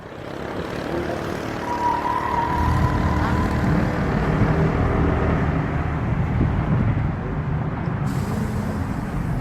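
Car engines running, with a steady low drone and a brief higher whine about two seconds in.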